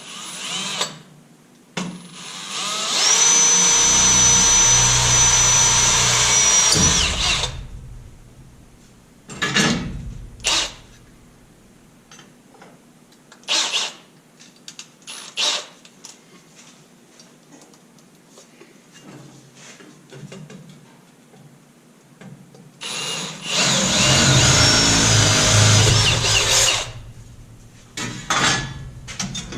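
A power drill boring into steel sheet metal, drilling out spot welds: two runs of about four to five seconds each, roughly twenty seconds apart, with a steady high whine. Short knocks and clicks come between the two runs.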